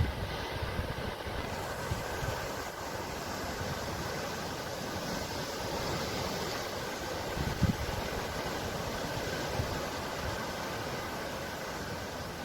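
Sea surf washing steadily, with wind buffeting the microphone in a few brief low thumps.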